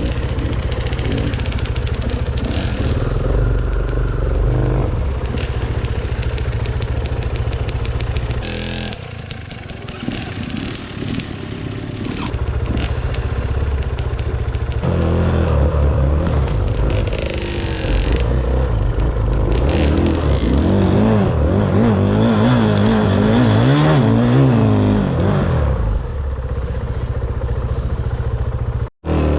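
Dirt bike engine running under riding, its revs rising and falling with the throttle, with clatter from the bike over the trail. The engine eases off about a third of the way in, then revs up and down rapidly in quick blips later on, and the sound cuts out for an instant near the end.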